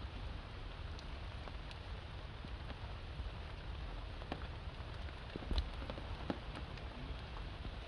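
Rainwater pattering and dripping onto wet stone and leaves, a steady hiss over a low rumble, with a few sharper single drops, the clearest about five and a half seconds in.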